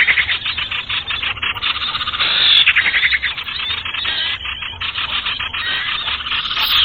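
Bird-trapping lure recording of sirtu birds: a dense, rapid chatter of many high, short chips and twitters overlapping one another, from a low-quality recording with the top end cut off.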